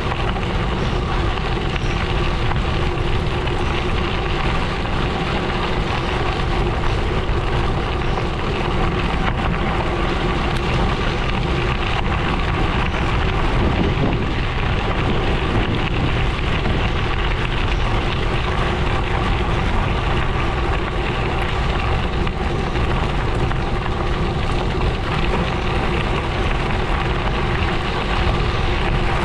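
Gravel bike tyres rolling steadily over a gravel road, an even, continuous noise with no breaks.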